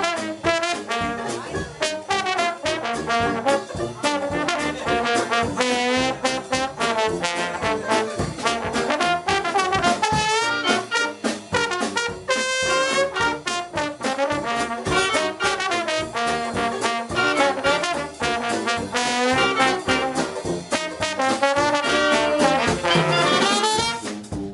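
Dixieland jazz band playing, with trombone and trumpet to the fore in several brass lines sounding at once.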